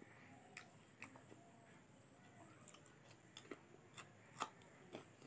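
Quiet close-up chewing of a mouthful of rice and chicken curry, with scattered wet mouth clicks and smacks that come more often and louder after about three seconds.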